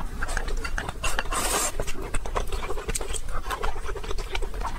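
Close-miked eating sounds: wet chewing and mouth clicks as rice and saucy food are eaten, with chopsticks clicking against a glass bowl. A brief breathy hiss comes about a second and a half in.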